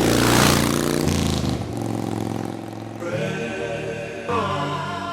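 A motorcycle engine running loudly, swelling and then easing off within the first second or two. Music with singing comes in about three seconds in.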